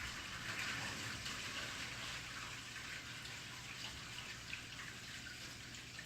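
Water from a flushed toilet rushing through the plumbing, loudest at first and slowly easing off.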